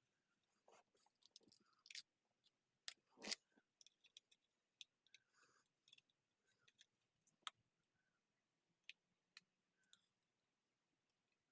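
Faint, scattered clicks and small scrapes of a small plastic microwave switch being handled and opened. The sharpest clicks come about two to three and a half seconds in and again about seven and a half seconds in.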